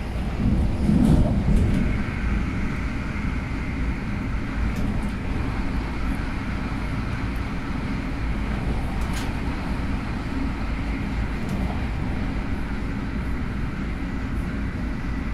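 Cabin noise of an MTR Airport Express A-Train, an Adtranz-CAF electric multiple unit, running at speed: a steady rumble of wheels on rail, briefly louder about a second in.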